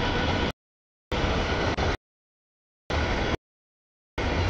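Freight train noise chopped into short snippets, four in all, each half a second to a second long and cut off abruptly, with dead silence between them. Each snippet is a steady low rumble with hiss above it.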